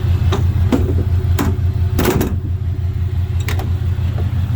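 6.7-litre Cummins turbo-diesel idling with a steady low drone, with a few sharp clicks and knocks over it and a short clatter about two seconds in.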